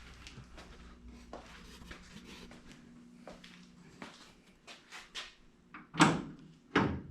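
Fiberglass hot-rod truck door being shut, with a loud thud about six seconds in and a smaller knock just before the end, after some faint clicks of the door being handled.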